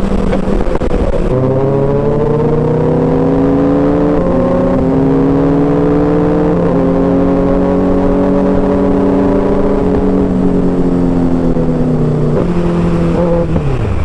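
Inline-four sportbike engine through an aftermarket exhaust, pulling steadily under way. Its pitch climbs slowly and jumps in sudden steps at the gear changes several times, then falls away near the end as the bike slows.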